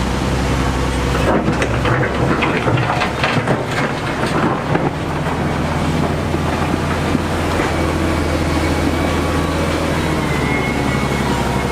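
Heavy diesel construction machinery running steadily, with a stretch of loud clattering and knocking from about one to five seconds in.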